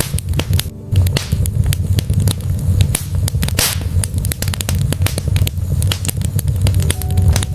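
Logs burning in a fireplace, crackling with many sharp pops over a steady low rumble of the flames, with a brief hiss about three and a half seconds in.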